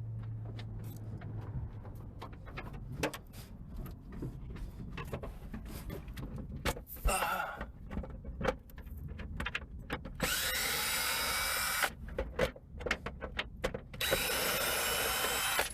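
Power drill driving screws out of car parts: scattered clicks and knocks of handling, then two runs of the drill, each about two seconds long, its pitch rising as it spins up, the second near the end.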